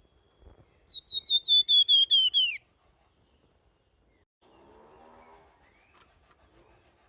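Flamboyan songbird singing a quick run of about ten clear, flute-like whistled notes that step slightly down in pitch, the last one sliding lower. A fainter, lower sound follows about four and a half seconds in.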